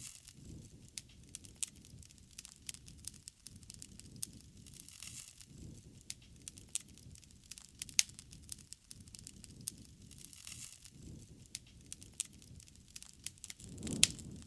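Campfire burning: wood crackling with frequent sharp pops, over a low whoosh of flames that swells and fades every second or two, with the strongest swell near the end.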